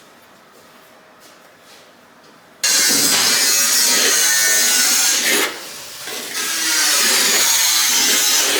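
Loud construction power-tool noise at a work site, cutting in suddenly a little under three seconds in and running steadily, with a short drop about halfway through.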